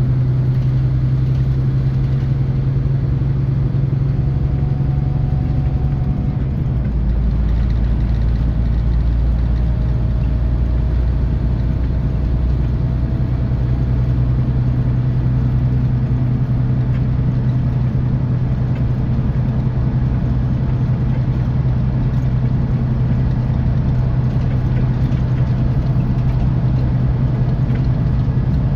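Scania K450EB coach's 13-litre inline-six diesel running under way, heard from inside the bus as a steady drone. The deep rumble beneath it grows stronger about seven seconds in.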